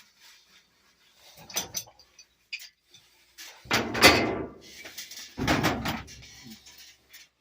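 A few scattered knocks, then two louder clattering bursts about four and five and a half seconds in, like metal pipe fittings and tools being handled and knocked together.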